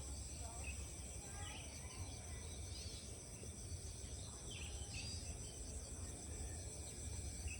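Rice-field ambience: a steady high insect trilling, with short bird chirps scattered through it and a low rumble underneath.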